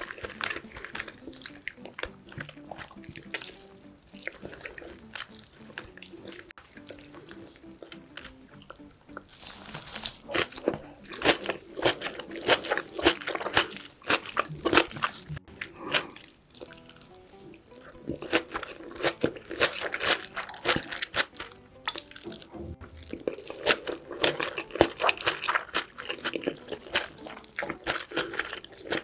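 Close-miked eating of braised pork back ribs and kimchi: chewing and crunching with wet mouth clicks. There are two busier stretches, one about a third of the way in and one over the last third, with quieter chewing between.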